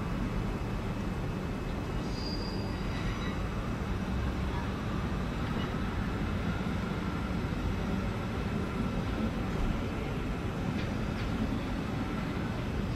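Trains running slowly over curved pointwork: a diesel multiple unit pulling away and a Siemens Desiro electric multiple unit coming in, with a steady rumble of wheels and running gear. A brief high wheel squeal comes about two seconds in, and a faint thin squeal from wheels on the curves follows through the second half.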